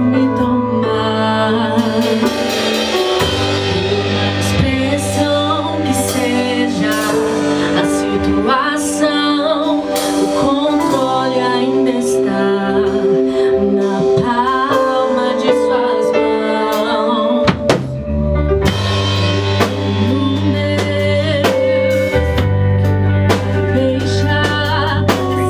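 Live gospel worship band playing and singing, with drum kit, bass and a lead vocal.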